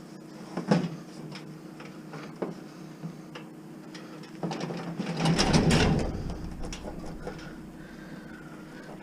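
Hand cutters clicking and squeezing at an appliance's power cord, the dull blades struggling to get through it, with handling knocks; a sharp snap a little under a second in and a louder scuffing burst with a low rumble about five seconds in.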